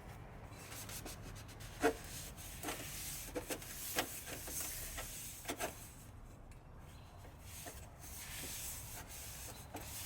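Handling noises: rubbing and scraping with a few light knocks and clicks, mostly in the first half.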